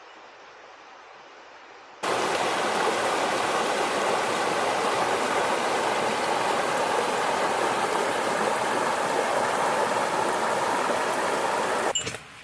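Steady rushing noise of flowing water, starting abruptly about two seconds in after a faint hiss and breaking off near the end.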